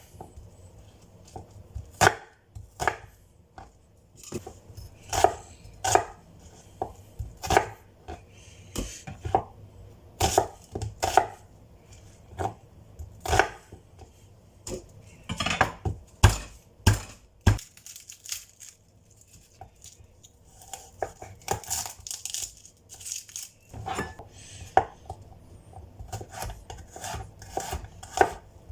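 Knife chopping on a cutting board in irregular strokes, with a short pause about two-thirds of the way through.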